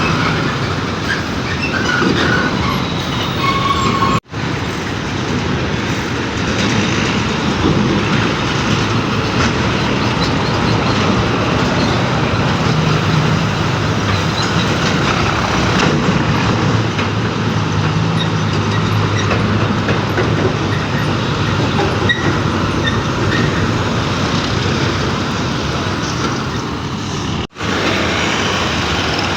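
Heavy trucks running, a steady mix of diesel engine hum, rolling noise and rattling. The sound cuts out for a moment twice, about four seconds in and near the end.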